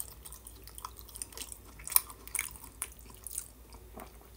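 A person chewing a mouthful of roast vegetable, with irregular small clicks and crunches from the mouth.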